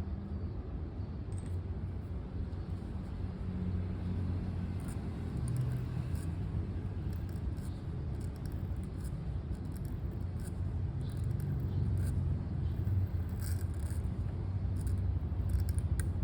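A steady low rumble, swelling slightly towards the end, with faint intermittent scratches of a pen writing on paper above it.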